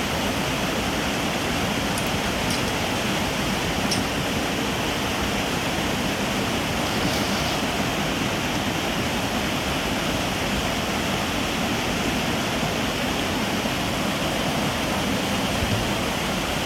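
Steady, even rush of running water that holds level throughout.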